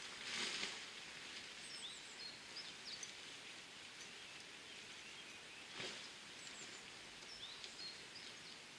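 Small birds chirping now and then over a steady hiss of outdoor background noise. There is a brief rustle near the start and another about six seconds in.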